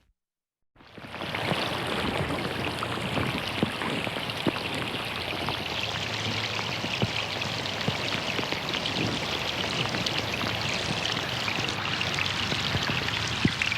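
Rain falling on a pond: a steady hiss of rain with many separate drops striking the water. It starts from a brief silence and fades back in over about a second.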